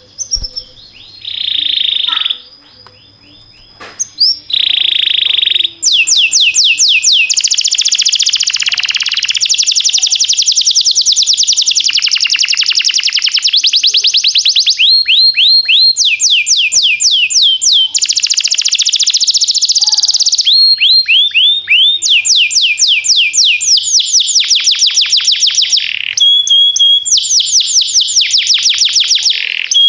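Domestic canary singing: a few short phrases at first, then from about six seconds in an unbroken song of fast trills, each phrase a rapid run of repeated notes that switches to a new phrase every second or two.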